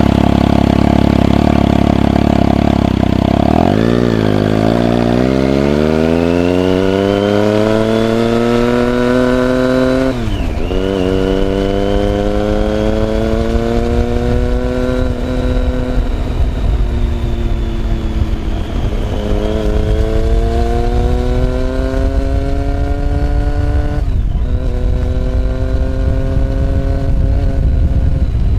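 Motorcycle engine idling just after starting, then pulling away and accelerating, its pitch rising and dropping at each gear change, about ten seconds in and again near the end, with an easing-off around two-thirds of the way through. Wind rush grows on the microphone as speed builds.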